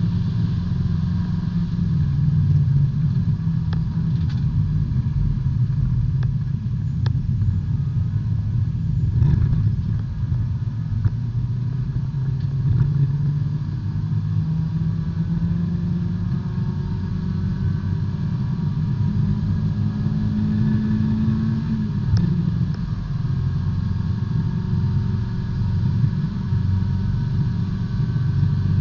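Small four-cylinder B-Spec race car engine running hard under racing load, heard from inside the car, its note rising and falling with speed. It climbs steadily for several seconds and drops sharply about three-quarters of the way through, as at an upshift. A few short knocks come through the body.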